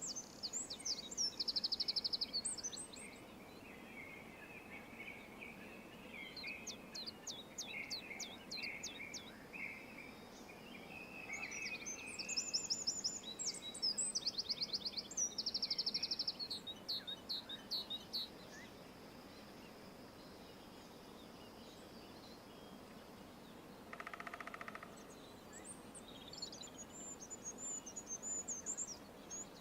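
Several songbirds singing over a faint steady outdoor hiss: rapid high-pitched trills and chirp series, with a lower run of notes beneath them. About three quarters of the way through there is one short, lower, harsher call.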